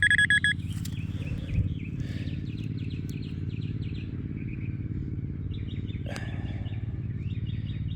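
A metal detector's high, steady target tone sounds for the first half second and cuts off. Then a bird gives fast trilled chirps in several bouts over a steady low hum, with a couple of short thuds.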